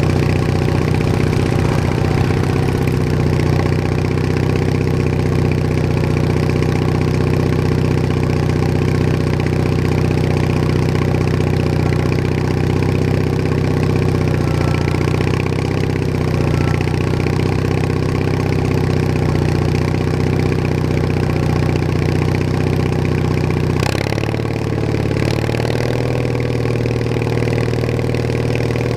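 Bolens HT20 garden tractor engine running steadily as the tractor drives along. Its note dips briefly a couple of times midway and changes suddenly about three-quarters of the way through, as the engine speed or load shifts.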